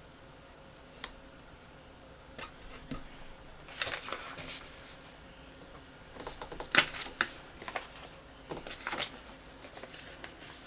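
Handling of paper sticker sheets and planner pages: scattered light clicks, taps and short rustles, in a few small clusters, the loudest a little past the middle.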